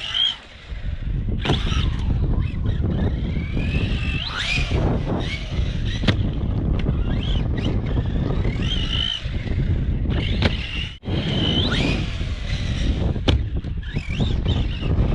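Brushless electric motor of an Arrma Typhon 3S BLX RC buggy (Hobbywing 4000kV) whining up and down in pitch as the car accelerates and slows again and again. A few sharp knocks, heavy wind rumble on the microphone throughout.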